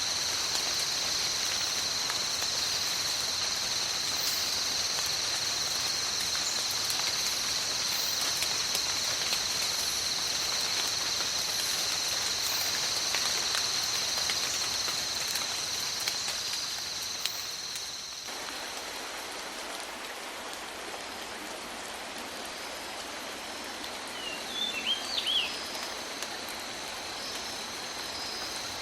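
Steady tropical rain, heard with a continuous high-pitched insect chorus. The deeper part of the rain sound thins out about two-thirds of the way through, and a bird chirps a few times near the end.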